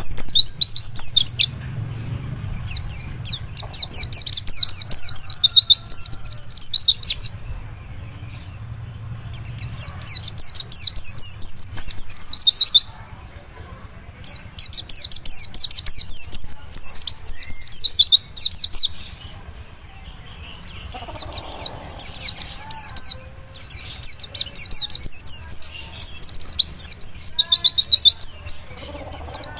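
Pleci dakun (a white-eye) singing long, very fast, high-pitched twittering song phrases, each a few seconds long, separated by short pauses.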